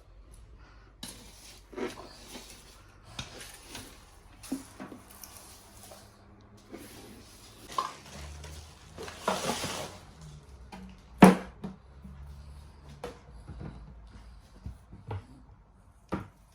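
Kitchen clatter: dishes and utensils knocking and scraping in scattered short clicks, with a brief rustling scrape and one sharp loud clack about eleven seconds in.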